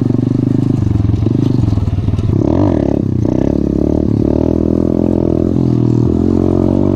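Coolster 125cc pit bike's single-cylinder four-stroke engine running while being ridden, its pitch rising and falling several times with throttle and gear changes.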